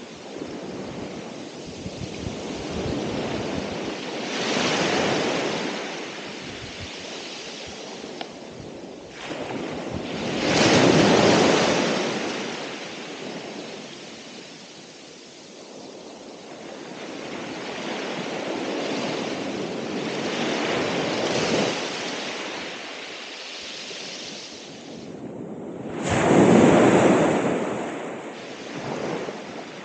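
Ocean waves breaking on the shore, the surf swelling and ebbing in slow surges every several seconds, with the biggest breakers about a third of the way in and near the end. Some wind buffets the microphone.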